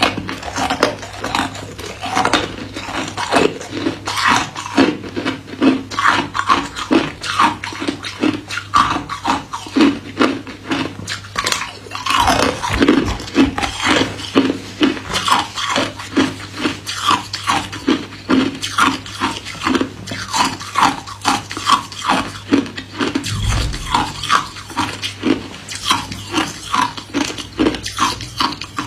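Hard white ice cubes being bitten and chewed close to the microphone: a steady run of loud, crackling crunches, about two a second.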